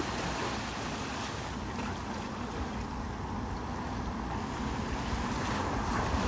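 Ocean surf with wind on the microphone: a steady rush that grows slightly louder near the end.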